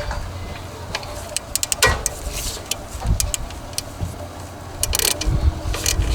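Scattered sharp clicks and clinks of hand tools on metal, with a low background rumble, during work on an alternator. A faint steady tone comes in about five seconds in.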